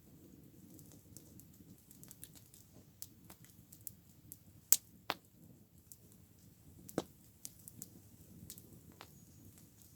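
Campfire burning with a low steady rustle and frequent small crackles, broken by three sharp pops in the middle, the first the loudest.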